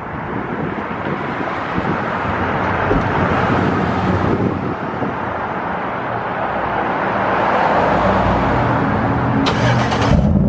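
Chevy Tahoe's 5.3 V8 running through a muffler-deleted exhaust with open pipes, getting louder after about seven seconds.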